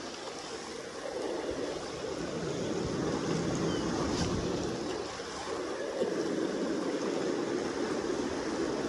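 Steady rush of the Kenai River's current along the bank, swelling and easing every few seconds.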